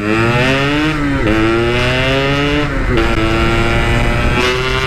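Yamaha RX-King's 135 cc two-stroke single-cylinder engine accelerating hard on the road, its exhaust note rising in pitch and dropping sharply at two upshifts, about a second and three seconds in.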